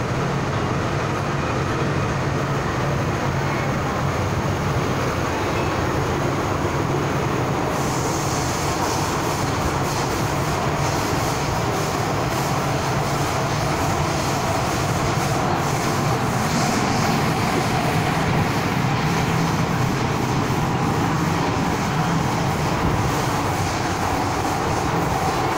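MTR Kwun Tong Line M-Train, a Metro Cammell electric multiple unit, running at speed between stations with a steady rumble of wheels on rail. A brighter hiss joins about 8 seconds in, and light clicks from the wheels and rails follow.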